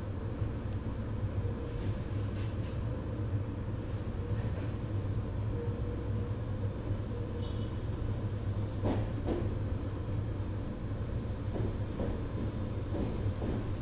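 Steady low hum inside a stationary Meitetsu 3500 series electric train, from its onboard equipment while it waits with the motors idle. A few faint knocks, the clearest about nine seconds in.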